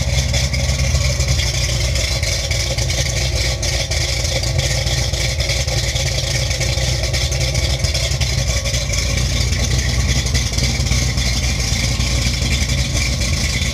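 Gen 1 Ford Lightning's 5.8-litre V8 idling steadily through a new exhaust, running on a mass-air conversion with an A9L Mustang engine computer.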